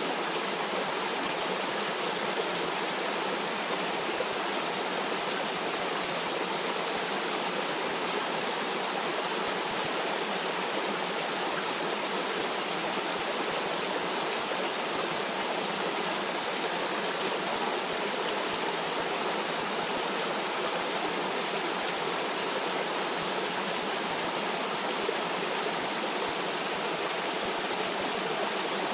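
Stream water flowing and splashing in an even, unbroken rush, with no change in level.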